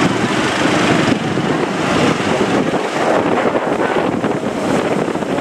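Strong wind buffeting the microphone over the steady wash of sea waves.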